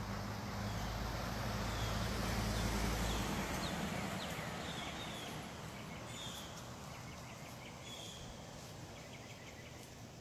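A passing motor vehicle's low hum swells and then fades out a few seconds in. After it, birds give short chirping notes over faint outdoor background noise.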